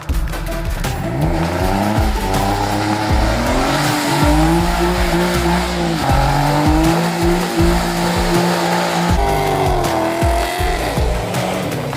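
Drift car engine at high revs, its pitch climbing over the first few seconds, holding, dipping about ten seconds in, then rising again, with tyres squealing.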